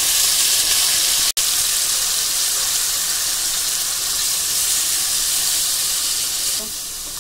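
Wet onion paste sizzling loudly as it hits hot oil in an aluminium kadhai and is stirred with a wooden spatula: a steady hiss that breaks off for an instant about a second in and eases a little near the end.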